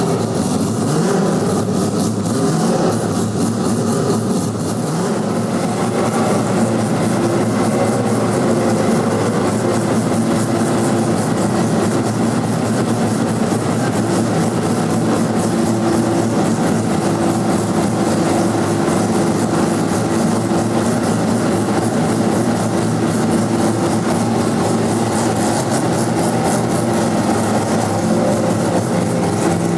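Mazda 767B's four-rotor rotary racing engine running steadily at a constant speed.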